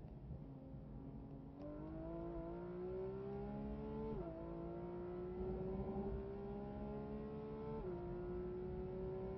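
Porsche GT3 RS's naturally aspirated flat-six, heard from inside the cockpit, accelerating hard: steady at first, then its pitch climbs from about a second and a half in, dropping sharply at two quick upshifts, about four seconds in and again about eight seconds in, before climbing once more.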